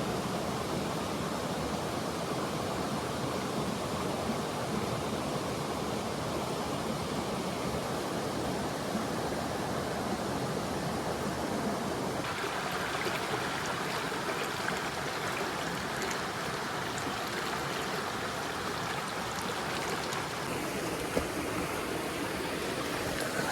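Shallow mountain stream running over rocks, a steady rushing of water. About halfway through the sound shifts to a higher, hissier rush with less low rumble.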